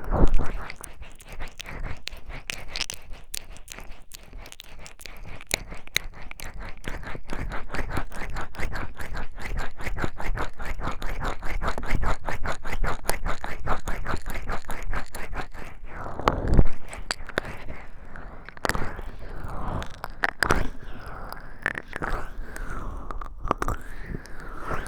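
Oiled hands massaging the silicone ears of a 3Dio binaural microphone close up: fast, wet, crackling rubbing, with one louder burst about two-thirds of the way through and slower strokes near the end.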